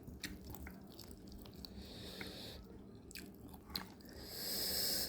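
A person chewing and biting fried fish close to the microphone, with small wet clicks and smacks of the mouth, then a hissing sound for about a second near the end.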